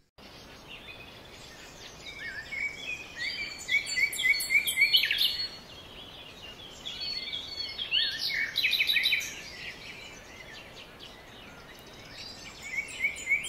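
Several songbirds singing and chirping in quick runs of short repeated notes over a steady hiss of background noise, with the birds busiest around the middle and again near the end.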